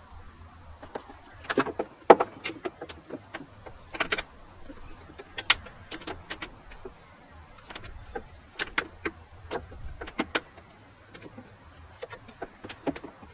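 Irregular metallic clicks and knocks of hand tools working at a hard-to-reach bumper mounting nut on a car.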